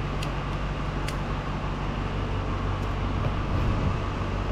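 An engine idling steadily with a low hum, with two light sharp clicks, one just after the start and one about a second in.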